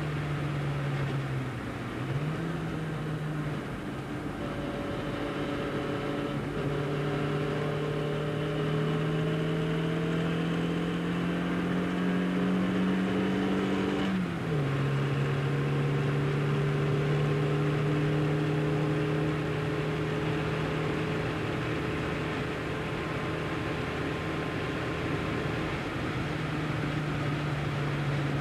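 Austin-Healey Sprite's tuned 1275cc four-cylinder engine with a large-bore exhaust, heard from inside the cabin under load. It climbs slowly through the revs, drops sharply about halfway through at an upshift, then pulls on at a fairly steady pitch.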